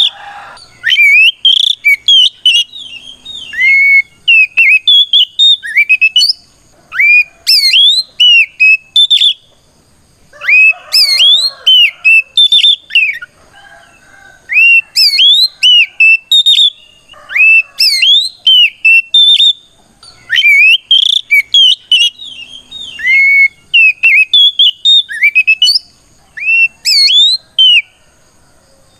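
Oriental magpie-robin (kacer) singing its loud challenge song: rapid phrases of sharp, whistled notes with quick rising and falling slurs. The phrases come in bursts of a second or two, broken by short pauses. This is the bold 'ngeplong' calling that a male uses to call out a rival.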